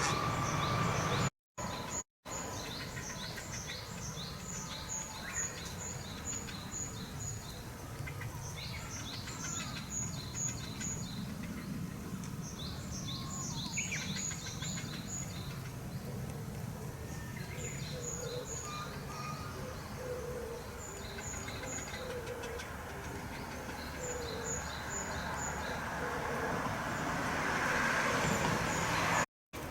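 Field recording of wild birds: quick runs of high, thin chirping notes repeat throughout. From about two-thirds of the way in, a low hooting note repeats about once a second, over steady background noise.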